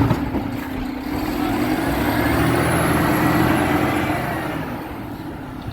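A garbage truck driving past: engine and road noise swell to a peak about three seconds in and then fade. A sharp thump comes right at the start.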